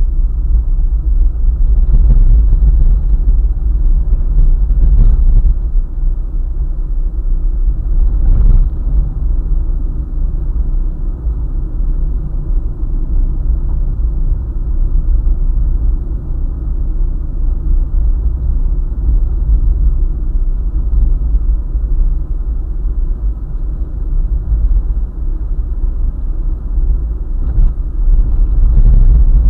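Car driving along a highway: a steady, loud low rumble of road and engine noise, with a few brief knocks scattered through it.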